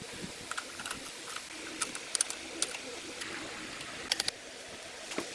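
Scattered light, sharp clicks and taps, like small parts or hand tools being handled, with a quick run of three or four clicks about four seconds in, over a faint steady hiss.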